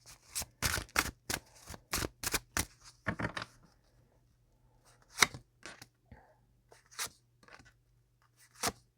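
Tarot cards handled and shuffled: a quick run of crisp card snaps and flicks for about three seconds, then a few single card clicks, as cards are drawn or laid down.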